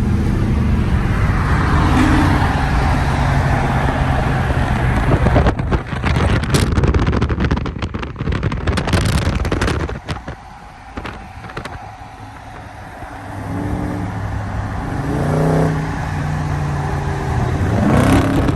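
Dodge Charger Hemi V8 engines running while driving, with the revs climbing a few times near the end. A stretch of wind buffeting and rustling noise with clicks runs through the middle, easing to a quieter patch before the engine note comes back.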